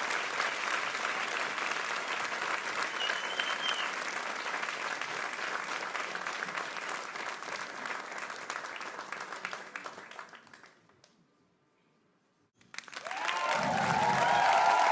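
Crowd applause: dense, steady clapping that fades away about ten seconds in. After a short silence, a fresh burst of applause with cheering voices starts abruptly near the end.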